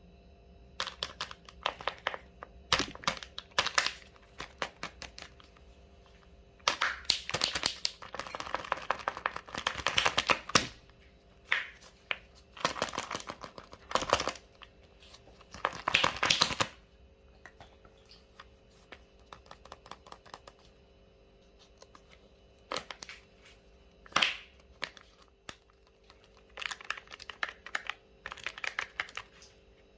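Kinder Joy egg wrappers crinkling and tearing as the eggs are opened by hand: irregular spells of crackling with sharp clicks, the densest a few seconds long.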